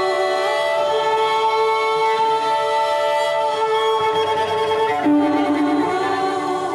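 Layered, sustained bowed-string notes from a cello, slow and drawn out, with a new lower note coming in about five seconds in.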